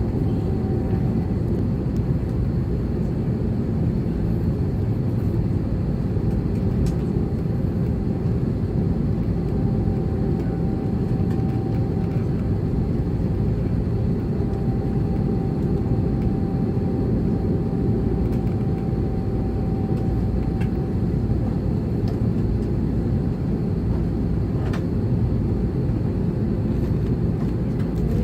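Steady cabin noise inside an Airbus A330-300: the Rolls-Royce Trent 700 engines running at low power with a constant low rumble and a faint steady whine, which fades about two-thirds of the way through. Pitch and loudness stay level, with no takeoff spool-up.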